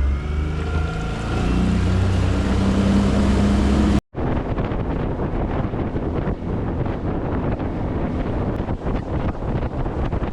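Skiff's outboard motor throttling up, its pitch rising, then running steadily. After a cut about four seconds in, the motor runs at speed under heavy wind noise on the microphone.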